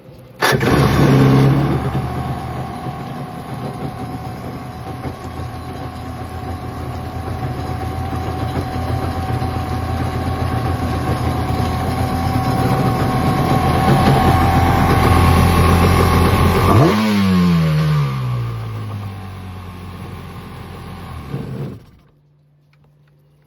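Two-stroke engine of a 1995 Yamaha Wave Venture personal watercraft starting suddenly and running, now cured of its no-start fault, climbing slowly in level. Around two-thirds of the way through its pitch sweeps down, it runs lower for a few seconds and then stops abruptly; the owner judges the idle to need a little adjusting.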